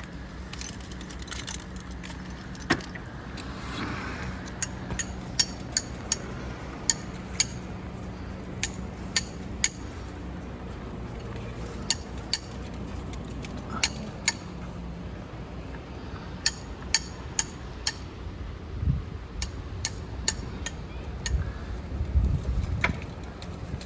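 Irregular sharp metallic clinks, like hardware knocking together, over a steady low engine hum, with a couple of dull low thuds near the end.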